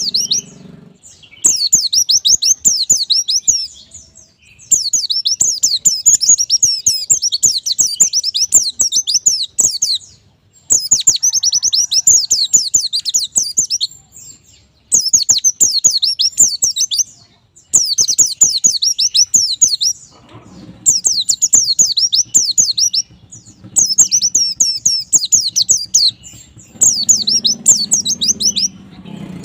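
White-eye (pleci) singing: rapid, high twittering song phrases of a few seconds each, repeated with short pauses between them.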